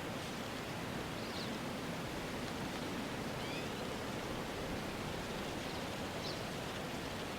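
Steady outdoor ambience: an even hiss with no clear rhythm, with a few faint, short, high chirps from a small animal about a second, three and a half seconds and six seconds in.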